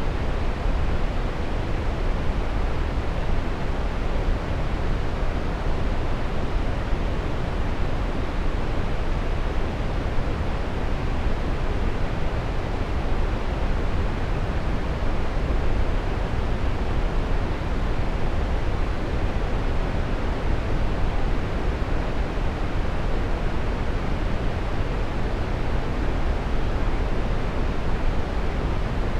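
Waterfall: a steady, even rush of falling water, heaviest in the low range, with no change in level.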